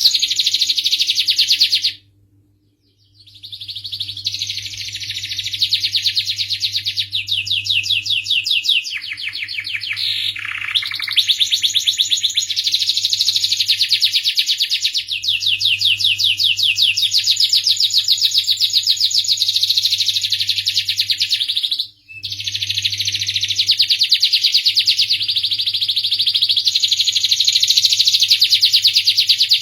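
Domestic canary singing long, fast trills and rolls, breaking off briefly about two seconds in and again about twenty-two seconds in, over a faint steady low hum.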